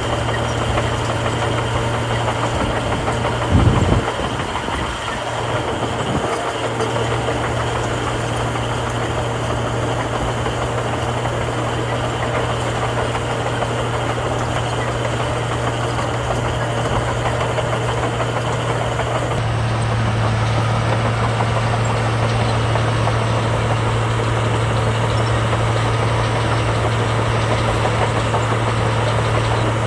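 Heavy diesel engine of earthmoving machinery running steadily, with one loud knock a few seconds in. About two-thirds of the way through, the engine note steps up slightly and gets a little louder.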